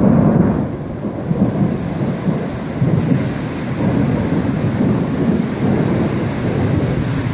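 Storm sounds: a continuous low rumble, loudest at the start, under a steady hiss of wind and rain.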